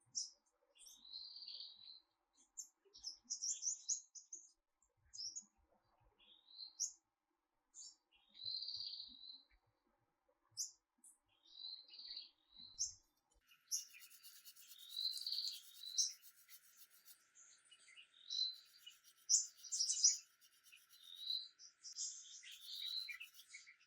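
Small songbirds chirping: many short, separate high calls, one after another. About halfway through, a steady high hiss joins in under the calls.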